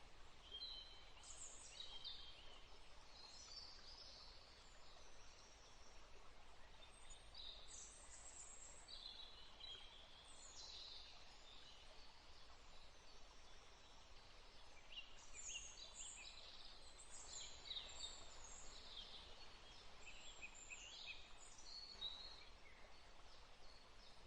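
Faint birdsong: many short chirps and quick trills from several small birds, sounding at scattered moments, over a low steady hiss.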